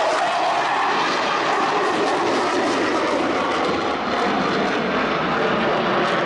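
Airplane engine of an aerobatic plane in flight: a loud, steady rush whose pitch slides down over the first couple of seconds, then holds.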